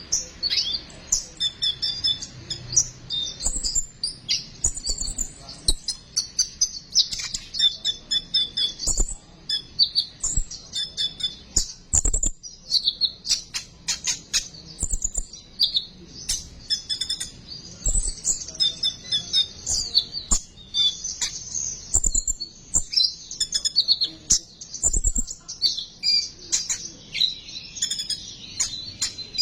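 Konin (kolibri ninja sunbird) singing its rapid besetan song: fast, high, chattering chirps and trills without pause. A few short dull thumps sound at intervals underneath.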